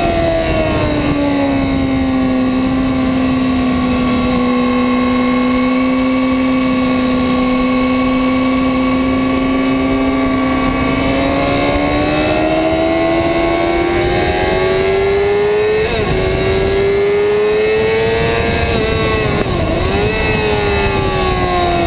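2008 Yamaha R6's 600 cc inline-four engine at track speed. The revs drop and then hold steady for about ten seconds before climbing slowly, with two brief dips in the later half. The revs fall away again near the end.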